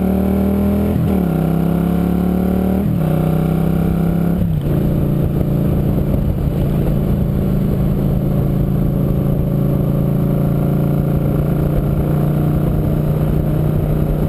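Motorcycle engine accelerating and shifting up: its pitch climbs, then drops at gear changes about one, three and four and a half seconds in. After the last shift it runs at a steady pitch at cruising speed.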